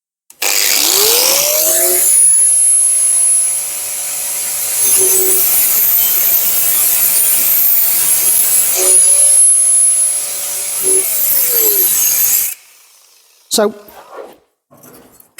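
Angle grinder spinning up, working sheet steel with its motor pitch sagging briefly under load several times, then winding down and stopping.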